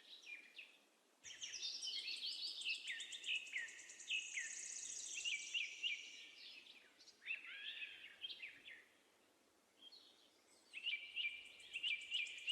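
Birds chirping and calling, faint, with many short quick chirps coming in spells and a couple of quiet pauses.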